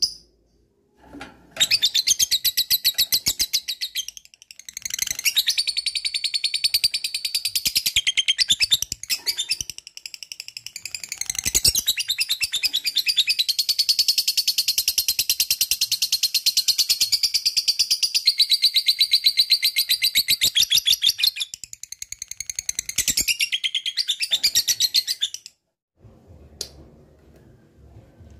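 Lovebird singing its long 'ngekek' chatter: a very fast, sustained rattle of high notes in long runs with a few short breaks, stopping about three seconds before the end.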